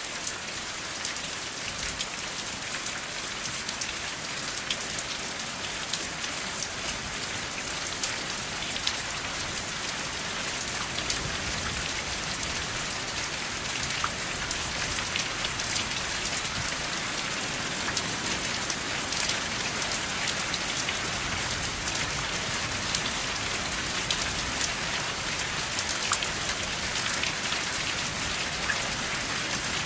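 Steady rain, with drops pattering and ticking on a surface: a continuous hiss flecked with many small sharp drop hits.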